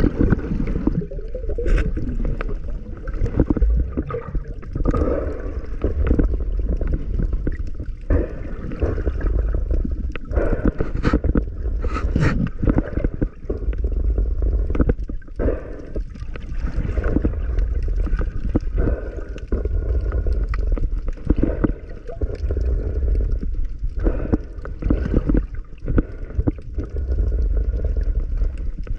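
Muffled water sloshing and gurgling, with scattered short clicks and crackles, as heard through the housing of a camera in the sea.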